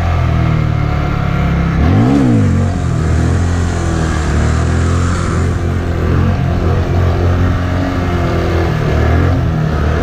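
Honda Grom's 125 cc single-cylinder four-stroke engine running steadily, with one quick rev up and back down about two seconds in.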